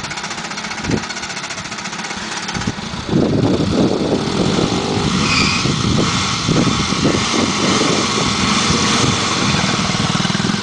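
Suzuki SJ's engine running just after starting, then revving harder and louder from about three seconds in as the 4x4 pulls away on loose dirt.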